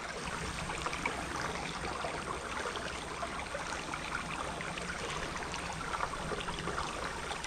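Creek water babbling steadily over rocks, an even rushing wash with small splashy ticks.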